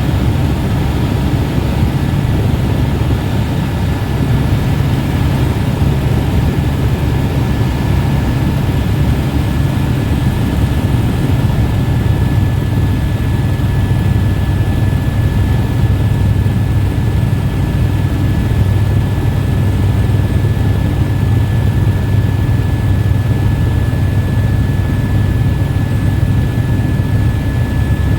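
Helicopter in flight: a loud, steady drone of engine and rotor with a thin, steady high whine over it.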